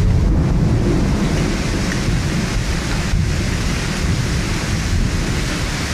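Heavy thunderstorm rain pouring down in a dense, steady hiss over a deep low rumble, a little louder in the first second or so.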